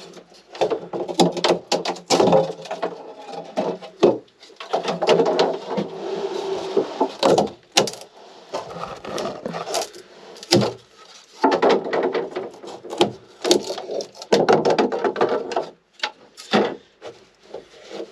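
Wooden interior fittings of a small fibreglass sailboat being pried and pulled out by hand: irregular creaking and scraping of wood, broken by sharp knocks and cracks.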